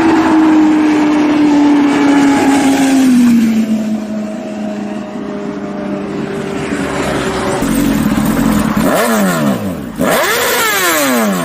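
Inline-four sport motorcycle engines running at speed: one engine's pitch slides steadily down over the first few seconds, then near the end several engines sweep sharply up and down in pitch as bikes rev and pass by.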